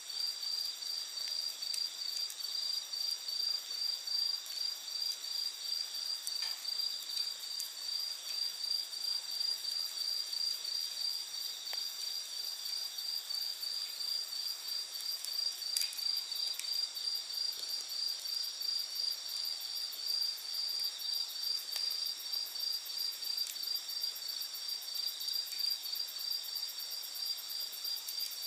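Insects chirping at night in a steady, high-pitched pulse of about two to three chirps a second, with a faster, higher trill joining in over the later part. A few faint crackles from a wood campfire are heard now and then.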